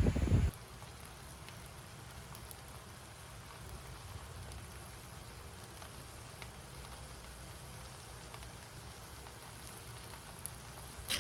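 Faint, steady background noise with a low rumble and a light hiss, after a louder sound cuts off abruptly about half a second in.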